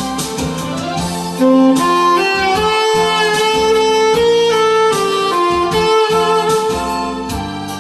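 Instrumental backing track of a Korean trot song: a melodic lead line over guitar accompaniment, with the tenor saxophone resting.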